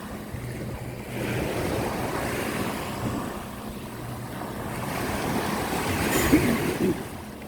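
Surf washing onto a beach, swelling and falling back, with wind buffeting the microphone. A few short thumps near the end.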